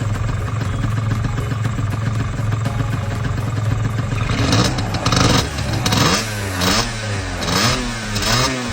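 Suzuki RG125 Gamma's two-stroke engine running steadily, then revved in a series of throttle blips from about halfway in, the pitch rising and falling with each one.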